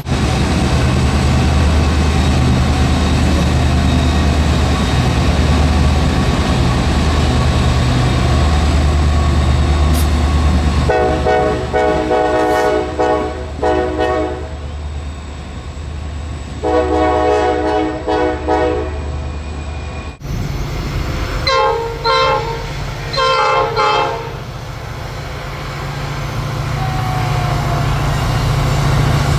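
Train locomotive passing with a steady low rumble, sounding its multi-note air horn in two long blasts; after an abrupt cut, two short horn blasts follow and the rumble returns.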